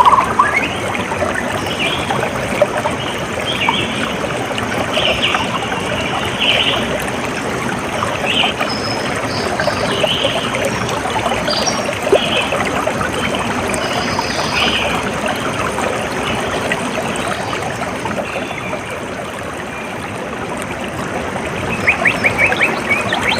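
Running water of a small stream trickling and burbling steadily, with scattered short bird chirps above it and a quick run of chirps near the end.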